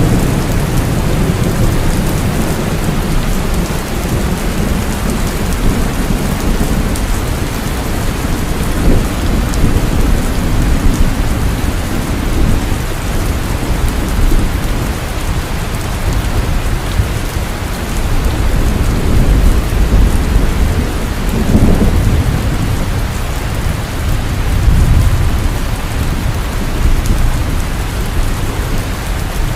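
Heavy rain falling steadily, with deep rolling thunder rumbling underneath that swells and fades, strongest at the start and again about two-thirds of the way through.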